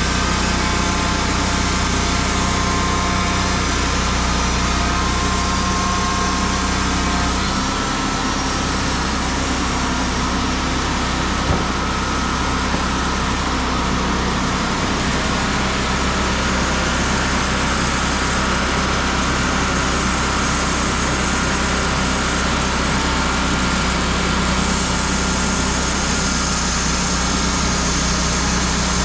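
An engine running steadily at a constant speed, with a slight change in its sound about a third of the way in and again near the end.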